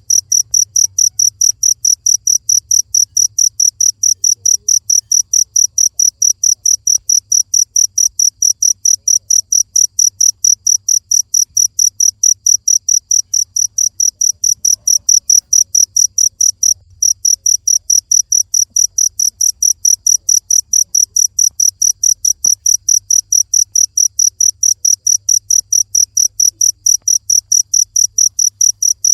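Cricket chirping in a fast, very even rhythm, about four high-pitched chirps a second, with one short break about seventeen seconds in.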